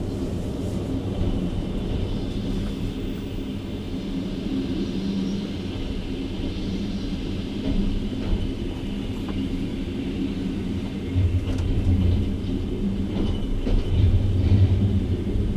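Passenger train running, heard from inside a carriage at the window as it pulls out: a steady rumble of wheels on rails with a low hum, and heavier low thumps about eleven and fourteen seconds in.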